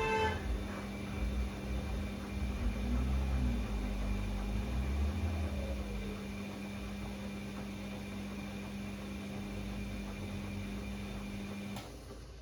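Bosch Classixx 6 front-loading washing machine turning its drum during the hot main wash of a cottons 90 °C cycle: a steady motor hum over low rumbling and irregular thumps of the wet laundry and water tumbling. The motor stops suddenly near the end as the drum pauses between turns.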